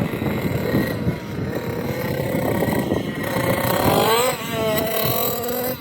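Dirt bike engine running, revving up about three and a half seconds in and dropping back after a second, then running steadily.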